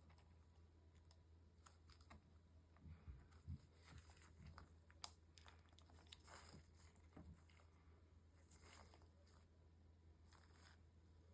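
Near silence, with faint scattered clicks and short rustles from hands and small tools working on an opened laptop, over a low steady hum.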